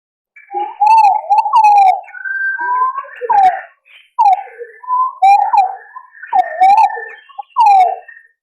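Green pigeons (punai) calling: a run of overlapping whistled phrases of gliding, warbling notes, mixed with sharp higher whistles. It starts about half a second in and stops just before the end.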